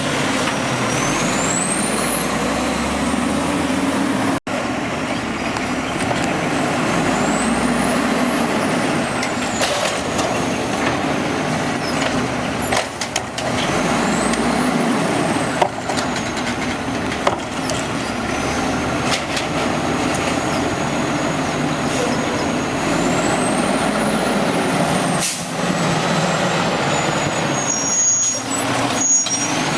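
Automated side-load garbage truck running, a steady diesel engine sound with a high whine that rises and falls several times. A few sharp knocks come through, the loudest near the end.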